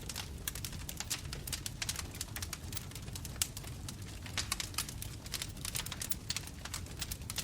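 Wood bonfire crackling, with many sharp pops and snaps every second over the low rumble of the flames; one louder snap about halfway through.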